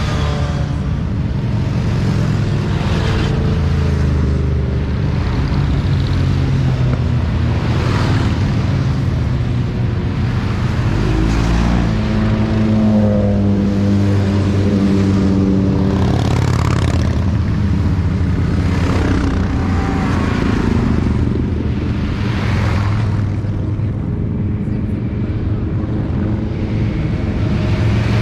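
Motorcycle engines running steadily in a group ride, with a held pitched note for a few seconds around the middle.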